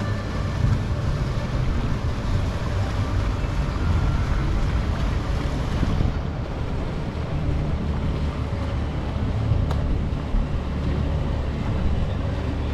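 Water sloshing and lapping around a gondola out on open harbour water, with wind rumbling on the microphone.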